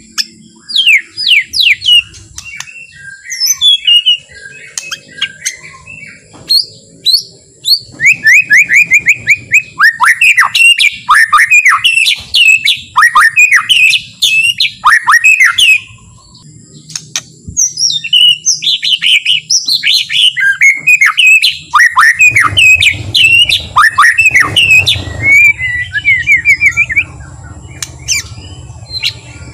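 White-rumped shama singing a long, varied song of quick falling whistled notes in rapid runs, with a short pause about halfway. A low steady hum comes in about three-quarters of the way through.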